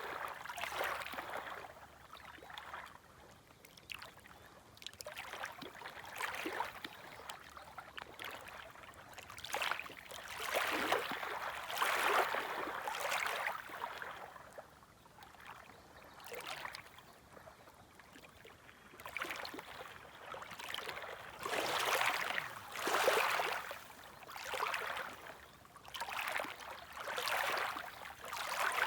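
Small, gentle waves lapping at the shoreline, washing in as a series of soft swells every couple of seconds, with quieter lulls between them.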